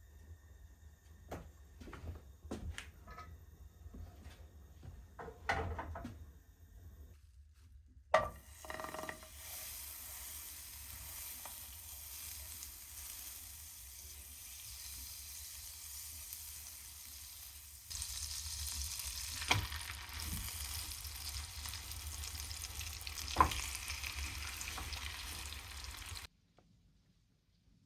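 A few light clicks and knocks, then a steady sizzling hiss that gets louder partway through, with two or three sharp taps. It cuts off suddenly near the end.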